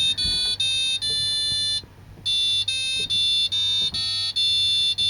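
Fisher & Paykel washing machine's control-panel beeper playing a national anthem as a melody of high, steady electronic beeps, note after note, with a short break about two seconds in.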